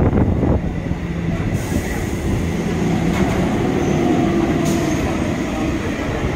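EMU local train coaches rolling past along the platform: a dense rumble of wheels on rail with a steady low hum, and a few sharp clacks over rail joints in the first half-second.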